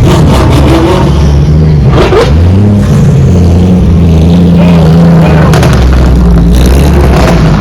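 A car engine running loudly with a low, steady note, its pitch stepping up about two seconds in, as the car pulls away. Crowd voices and shouts sound over it.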